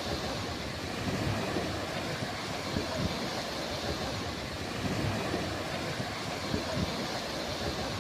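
Ocean waves washing onto a beach: a steady hiss of surf with irregular low rumbles.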